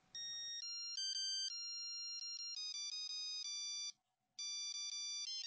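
A simple electronic ringtone-style melody of clean, stepped notes. It breaks off for a moment about two-thirds of the way through, then resumes.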